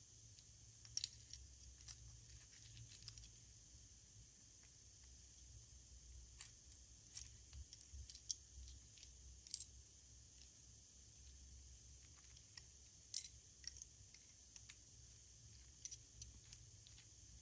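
Faint, scattered small clicks and crinkles of hands handling small plastic items and packaging, coming in short clusters with gaps, over a faint low hum.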